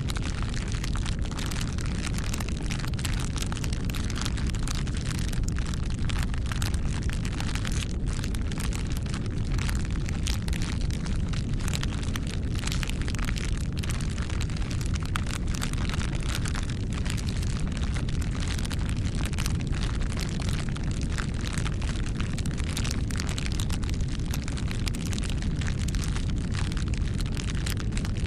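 Wood fire burning: a steady low rumble with dense, irregular crackles and pops.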